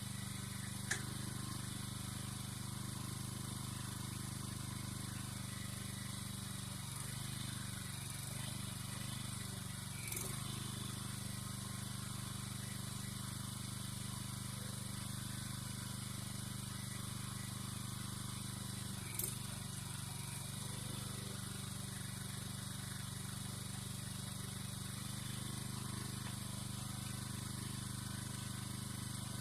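Engine running steadily at a constant speed, with a few brief sharp clicks or knocks about a second in, about ten seconds in and near the nineteen-second mark.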